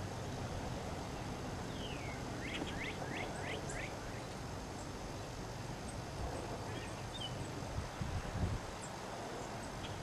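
A songbird singing: one falling whistled note about two seconds in, then a quick run of about five falling whistles, with a single short high chirp a few seconds later, over a steady outdoor hiss.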